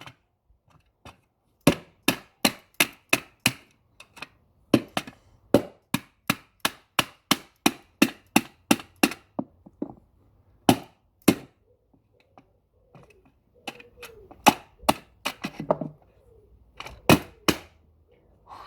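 Hammer blows smashing a plastic toy truck: runs of sharp strikes, about three a second, broken by short pauses.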